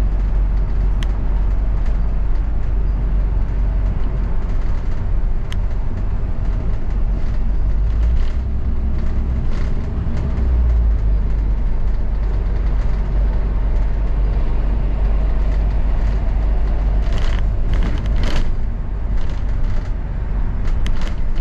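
Steady low rumble of a double-decker bus's engine and road noise as heard from inside, with a few sharp clicks and a run of short rattles near the end.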